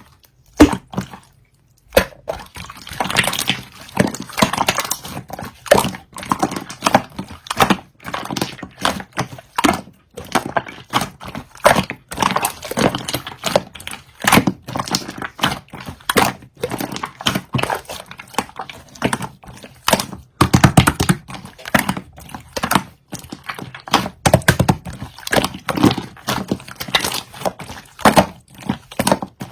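Slime being squished, poked and stretched by hand, making a dense, irregular run of sticky pops, clicks and squelches.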